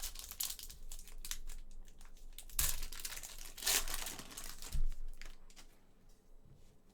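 Crinkling and rustling of plastic or foil as trading cards and their pack wrappers are handled, louder for two short stretches in the middle, with a couple of soft thumps.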